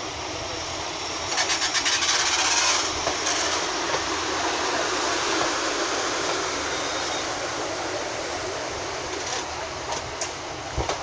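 Loco-hauled passenger train, Mark 3 driving van trailer 82152 with Class 90 electric locomotive 90004, moving slowly through the station with a steady rumble of wheels on rail. About a second and a half in, the wheels click quickly over rail joints about six times, and a few single clicks come near the end.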